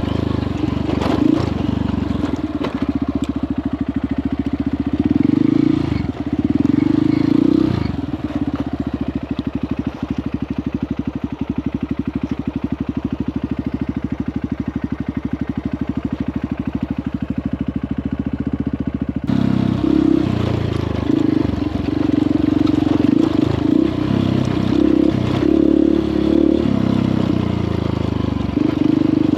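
Honda CRF150L single-cylinder four-stroke engine running under a rider, its revs rising and falling. Through the middle stretch it settles to a quieter, even beat, then picks up and gets louder again about two-thirds of the way through.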